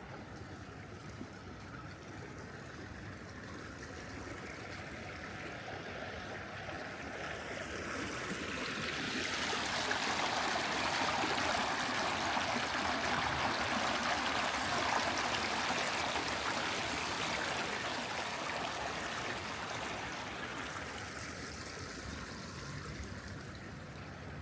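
Steady rush of running water, swelling about eight seconds in, loudest in the middle, then fading again near the end.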